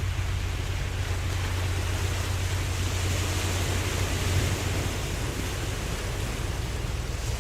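Ocean waves washing continuously: a steady wash of surf noise over a constant low rumble.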